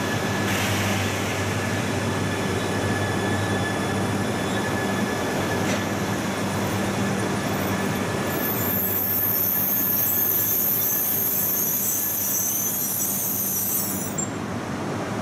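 Shinkansen bullet train running slowly past along the platform, a steady rumble of wheels with a low motor hum. A high-pitched squeal from the wheels sets in about two-thirds of the way through and cuts off suddenly near the end.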